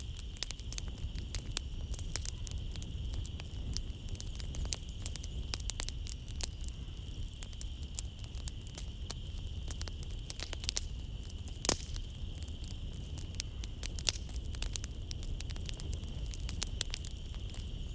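Wood fire in a fireplace crackling, with irregular sharp pops and snaps throughout and one louder pop a little past the middle. A steady high trill of night insects and a low rumble sit underneath.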